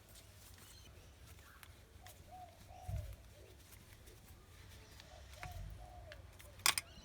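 Faint pigeon cooing in a few short, arched calls. There are light knocks, and one sharp click near the end as a screwdriver works the tap's fixing screws.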